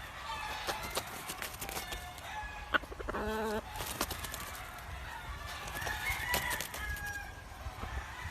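Gamefowl chickens calling and clucking, with one short pitched call about three seconds in and scattered sharp clicks.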